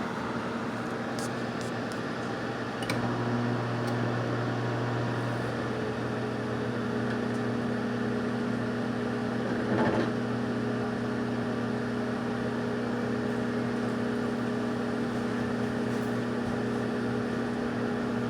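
Microwave oven running on its popcorn setting with a steady hum and no popping yet. About three seconds in the hum steps up louder and deeper. There is one brief soft knock about ten seconds in.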